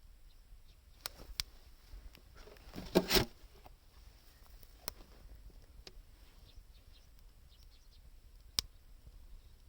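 Wood fire crackling: scattered sharp pops and snaps, with a louder cluster of cracks about three seconds in.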